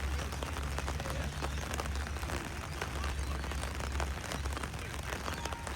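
Wind buffeting an outdoor microphone: a steady low rumble with a constant crackle over it.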